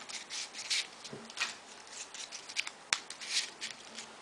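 Folded paper triangle modules rustling and scraping as they are pushed into place on a modular 3D origami model: a string of short, crisp, irregular rustles and clicks.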